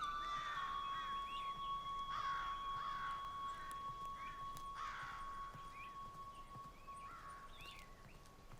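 Birds calling in short, crow-like caws, about ten of them, over a single held musical note. The note slowly fades and is gone near the end, and the whole sound grows gradually quieter.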